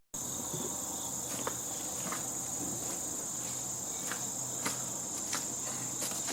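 Insects chirring as a steady high-pitched drone, with a few faint clicks scattered through it.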